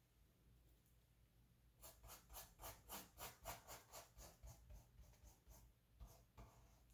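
Faint paintbrush strokes on canvas: a quick run of short brushing strokes, about three a second, starting about two seconds in and stopping about a second before the end.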